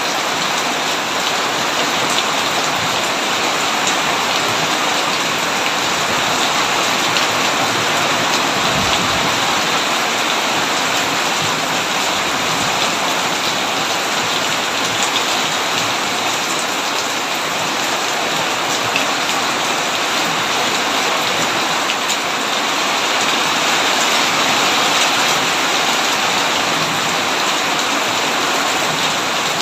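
Heavy rain pouring steadily: a dense, even hiss with scattered ticks of single drops.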